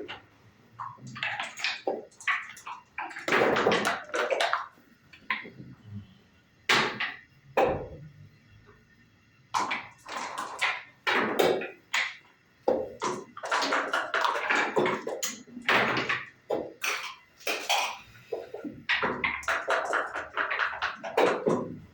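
Backgammon dice bouncing on the board and checkers being clacked down on it in play: a series of sharp taps and rattles, some clustered together, with a quieter stretch in the middle.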